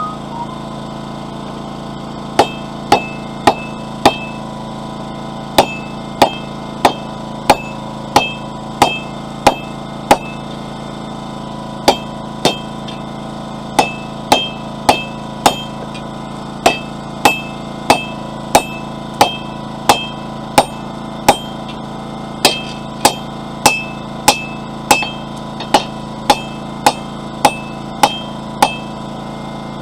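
Hand hammer striking a hot mild steel bar on an anvil in quick runs of two to four blows with short pauses, each blow ringing briefly. A petrol generator hums steadily underneath.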